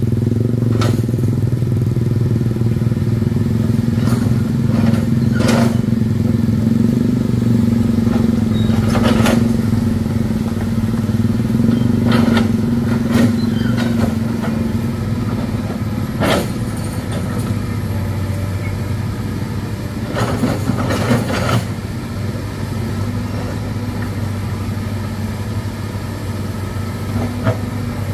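Excavator diesel engine running steadily under load, with sharp knocks and scrapes every few seconds that fit the bucket striking and breaking rock.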